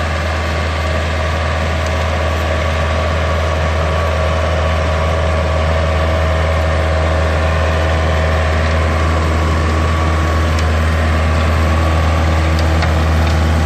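Yanmar US545 tractor's three-cylinder diesel engine running at a steady speed, with a deep, even hum that does not rise or fall.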